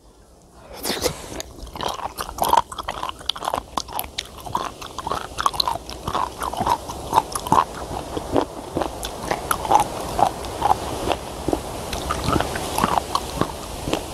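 Close-up chewing of raw sea cucumber: a steady run of crisp, wet crunches and bites starting about a second in. Wind rushes on the microphone, growing louder toward the end.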